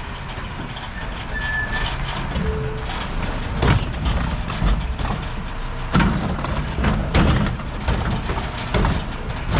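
Mack LR recycling truck running, with high-pitched squeaks in the first couple of seconds. From about three and a half seconds in come several loud clunks and knocks, roughly one every second or two.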